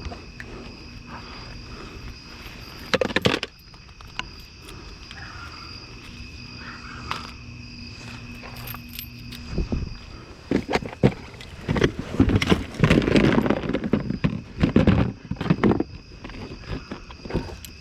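Steady high-pitched drone of night insects, with a short clatter about three seconds in and a long spell of rummaging, rustling and knocking through salvaged trash from about ten seconds in.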